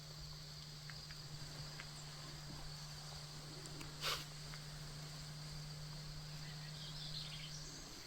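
Insects chirping in a steady, high, continuous trill, with a faint low hum underneath. One brief sharp sound stands out about four seconds in.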